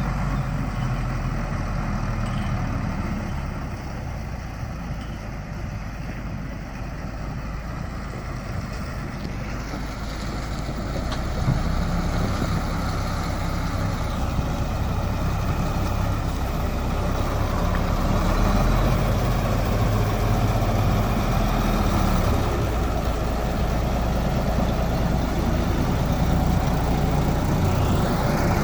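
Truck on the road: a steady low engine rumble with road noise. It gets louder about eleven seconds in and again a few seconds later.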